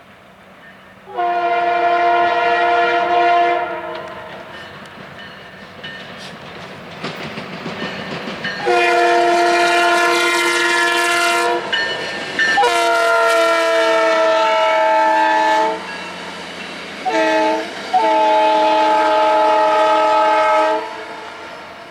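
Locomotive multi-chime air horn sounding one long blast, then after a pause the grade-crossing signal: long, long, short, long. The train's running noise and wheel clatter swell between and under the blasts.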